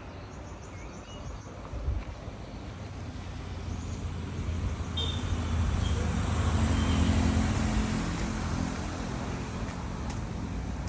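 A motor vehicle passing on the road, its engine and tyre noise swelling to a peak about halfway through and then fading away.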